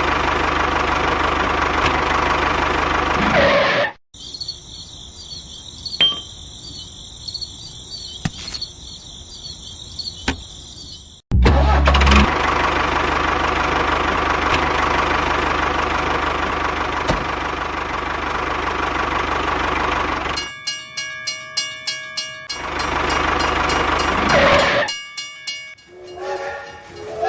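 Steady engine-like running noise that cuts off suddenly after about four seconds. A quieter high whine follows. The engine noise returns abruptly at about eleven seconds and runs for roughly nine seconds, then gives way to alternating bursts of steady horn-like tones and noise near the end.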